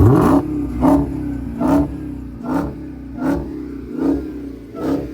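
Dodge Hellcat's supercharged 6.2-litre Hemi V8 revved in neutral. It gives one sharp rev at the start, then a steady series of quick throttle blips about one every 0.8 seconds.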